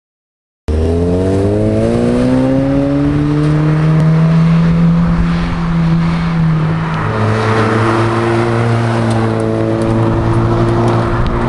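Alfa Romeo 156 running through a stainless-steel sport exhaust. The sound cuts in suddenly under a second in; the engine note climbs in pitch for a few seconds, holds, then drops to a lower steady note about seven seconds in.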